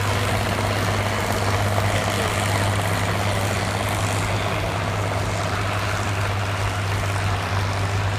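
David Brown 1210 tractor's naturally aspirated three-cylinder diesel engine running hard and steady under full load while pulling a weight sled at about 2200 rpm, its pitch holding level throughout.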